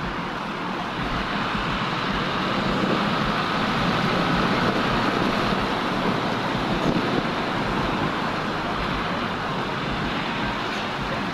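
Road traffic noise: a steady rush of passing vehicles that swells louder for a few seconds in the middle.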